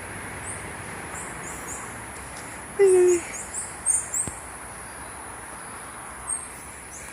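Tropical forest ambience: a steady high insect drone with many short, repeated high chirps. About three seconds in comes one short, low call that slides slightly down in pitch, the loudest sound here.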